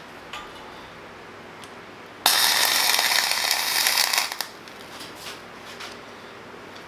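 Millermatic 251 MIG welder with .045 flux-core wire striking an arc and laying a heavy tack weld. The arc crackles and sizzles for about two seconds starting about two seconds in, then sputters out.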